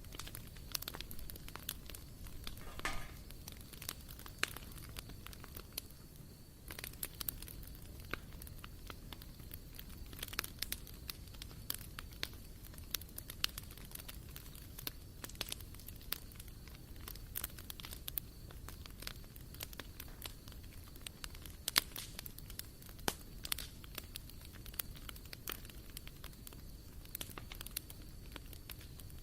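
Wood fire burning in a barbecue grill, crackling with frequent irregular sharp pops over a low steady hiss, with a brief hiss about three seconds in.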